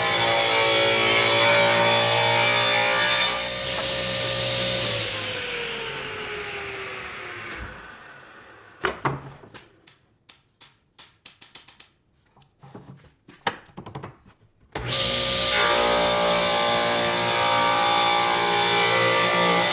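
A workshop power tool's electric motor running steadily, then switched off and spinning down with a falling pitch. A few light clicks and knocks of handling follow, and about fifteen seconds in the motor starts again and runs steadily.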